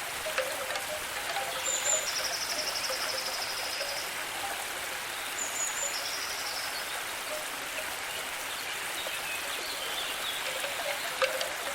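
Nature ambience: a steady hiss of water, like rain or a stream. Twice, a high, evenly pulsed trill comes in, each time led by a short higher note: once from about two to four seconds in, and again briefly about six seconds in.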